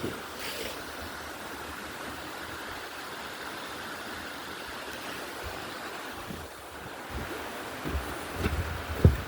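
Small man-made waterfall, water spilling from a pipe down over rocks, making a steady rushing splash. Near the end there are a few low bumps on the microphone.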